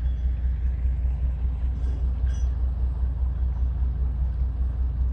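Lobster boat's engine running steadily, a low, even rumble.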